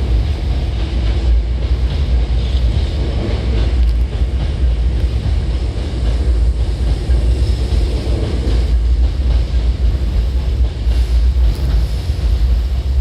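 Steady low rumble of a Hankyu 7000 series electric train running, mixed with wind buffeting the microphone.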